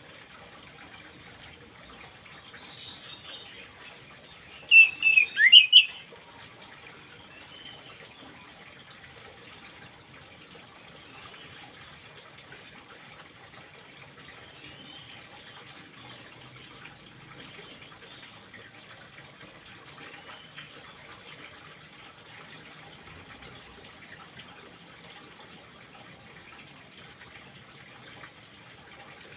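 Orange-headed thrush giving a quick burst of short, sharp, falling chirps about five seconds in, with a few fainter chirps scattered later, over a steady low hiss.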